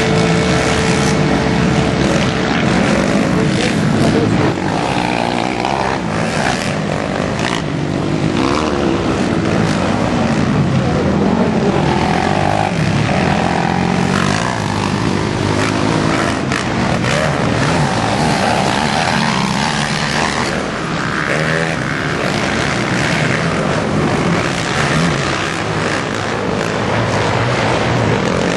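Racing quad (ATV) engines revving hard, their pitch rising and falling repeatedly as they accelerate and shift, several overlapping at once.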